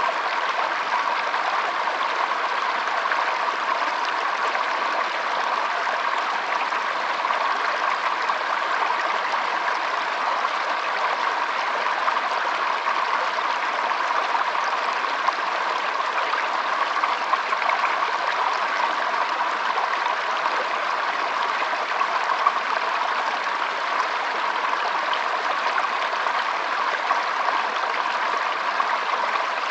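Stream water flowing and rushing steadily, with no change in level.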